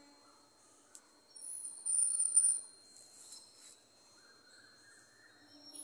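A bird chirping, a brief high-pitched call about two seconds in, over a faint steady high tone.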